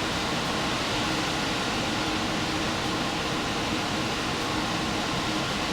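Diesel express train running at speed, heard from inside the car: a steady, even rush of running noise with a faint low hum.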